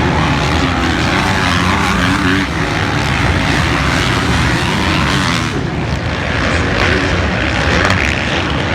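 Motocross bike engines running loudly at race pace.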